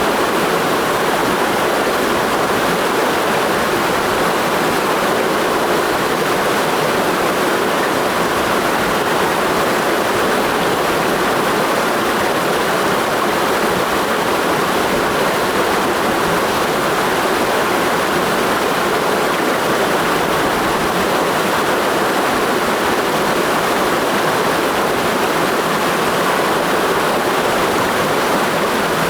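A clear mountain stream rushing steadily over rocks, an even, constant rush of water.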